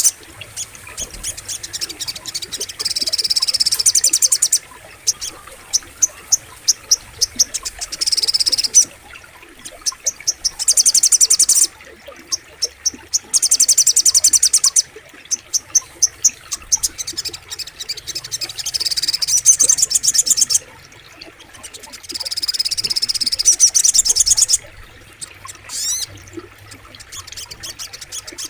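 Sogok ontong songbird singing: rapid, high trills lasting one to two seconds, repeated again and again, with single sharp chirps between them, over a faint wash of flowing water.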